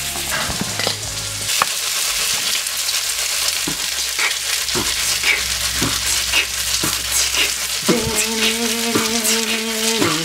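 Breaded chicken strips sizzling in hot oil in a nonstick skillet, with short clacks about once a second as the pan is shaken on the electric coil burner. A steady low hum joins about eight seconds in.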